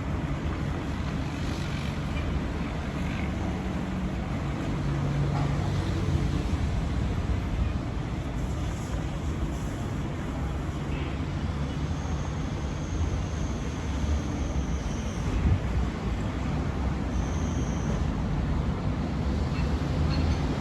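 Steady city street traffic: engines and tyres passing in a continuous rumble, with gusting wind buffeting the microphone. A thin high whine sounds twice in the second half.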